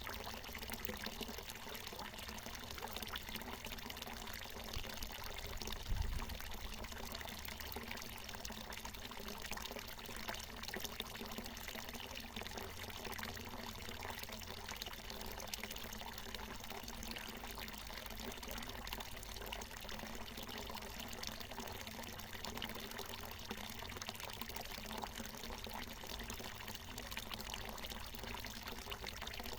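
Water from a natural mountain spring pouring and splashing in a steady stream. A brief low thump about six seconds in.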